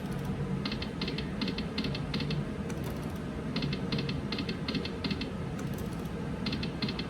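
Slot machine giving off rapid, evenly spaced ticking sound effects, about three a second, in three short runs, over a steady low casino hum.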